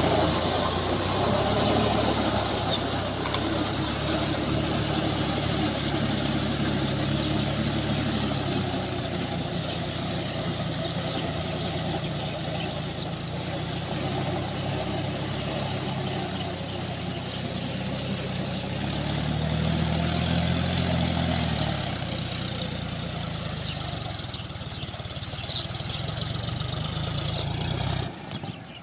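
Big farm tractor diesel engines running steadily, revving up and settling back once about twenty seconds in.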